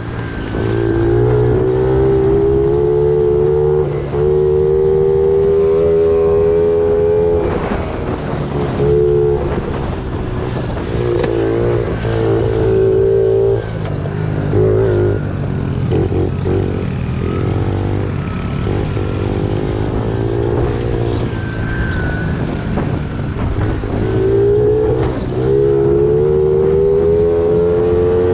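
Small single-cylinder pit bike engine being ridden hard, its pitch climbing in long pulls near the start and near the end, with the throttle chopped and blipped in between. It runs cleanly on a newly fitted, freshly tuned carburetor.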